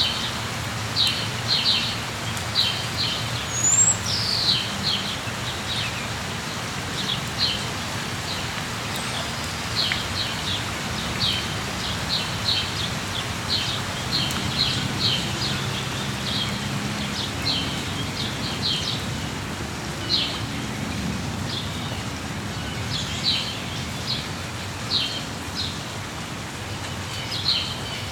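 Small birds chirping in quick short calls, over a steady hiss of rain.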